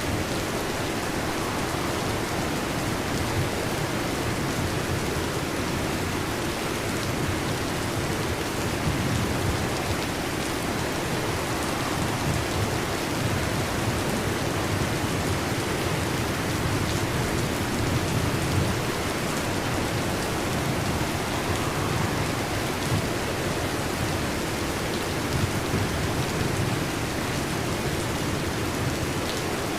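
Heavy rain falling steadily in a continuous hiss, with low rumbles of thunder swelling and fading now and then.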